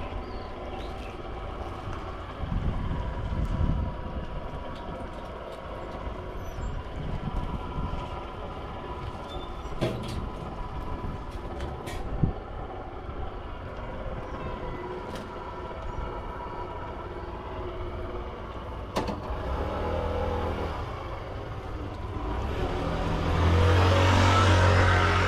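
A low engine rumble with a few sharp clicks. About twenty-three seconds in, a louder engine with a steady low hum comes close, then eases off near the end.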